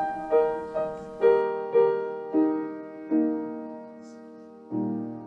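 Piano playing the closing bars of the hymn after the singing stops: single notes stepping down in pitch and slowing, then a low final chord struck near the end and left to ring.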